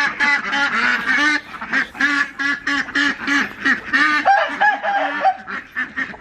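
A flock of Cayuga and mixed-breed ducks quacking, crazy loud, many calls overlapping several times a second.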